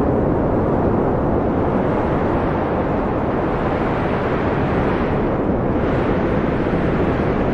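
Wind blowing steadily, a low rushing noise that swells and eases slightly as it goes.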